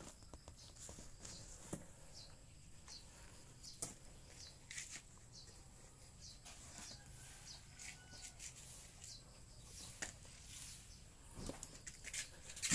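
Quiet yard ambience with faint, scattered high-pitched bird chirps and a few sharp clicks.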